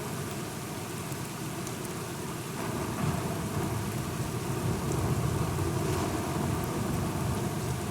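Steady rain falling, with a low rumble of thunder swelling in about three seconds in and rolling on.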